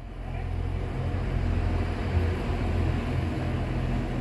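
Train running with a steady low rumble and hum, fading in over the first half second.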